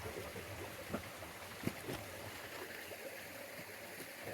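Mountain stream running steadily, with a few faint knocks.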